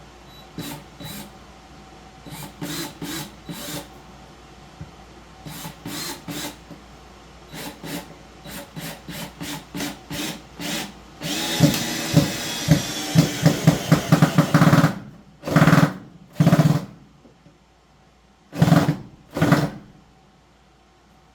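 Power drill run in many short trigger pulses that come faster and faster, then held for a few seconds, then two pairs of short bursts.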